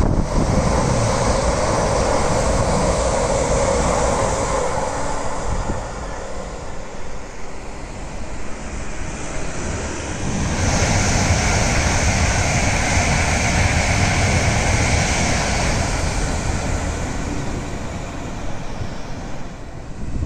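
Electric train passing fast beneath an overbridge, a loud rumble and rush that eases off after a few seconds. About halfway through it gives way abruptly to a steady rushing noise.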